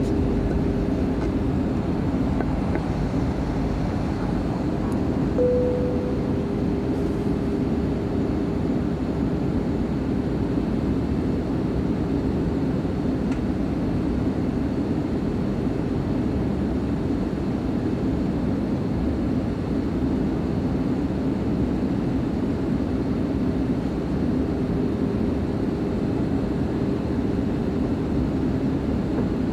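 Steady in-cabin noise of an Airbus A320-232 in its landing descent: its IAE V2527-A5 turbofans running with a low drone and a steady hum over the rush of air. A short single tone sounds about five seconds in.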